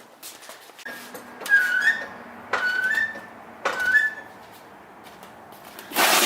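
Three short, high squeaks about a second apart, each starting with a click, then about a second of rushing noise near the end as coolant begins to drain from the car's cooling system.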